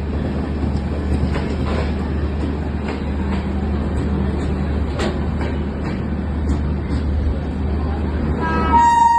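Departing passenger train rolling by with a steady low rumble and scattered sharp clicks of wheels over rail joints. A held high tone starts near the end.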